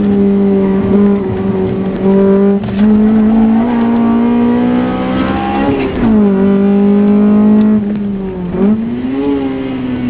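Honda Civic SiR's B16 four-cylinder engine heard from inside the cabin, running at high revs under hard driving. The revs climb slowly, drop sharply about six seconds in as at a gear change, then dip briefly and pick up again near the end.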